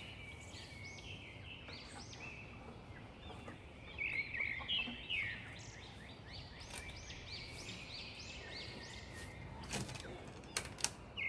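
Birds chirping over and over, short rising-and-falling calls, with a few sharp clicks near the end.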